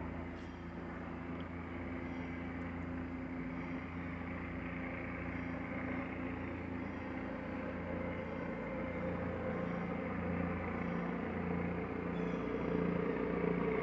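Low-flying helicopter's rotor and engine drone, steady and slowly growing louder as it comes around again.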